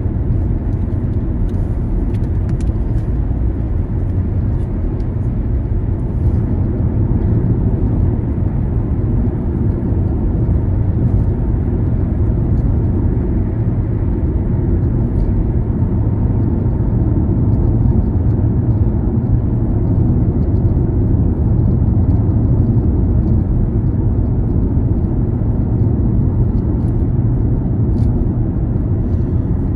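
Car driving along city streets: a steady low rumble of engine and road noise.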